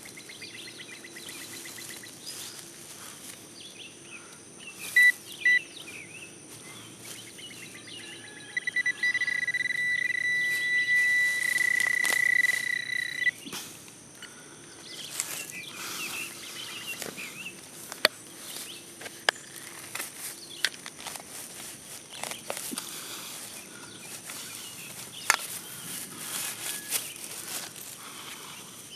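Metal detector signalling a target: a high beep pulsing rapidly, then held as a steady tone for about five seconds, which means metal lies close by. Sharp clicks follow later, over a steady high drone of insects.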